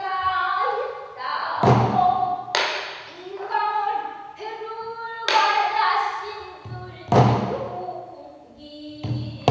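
Pansori singing: one voice holding and bending long, wavering notes, with sharp strikes of the buk barrel drum every second or two.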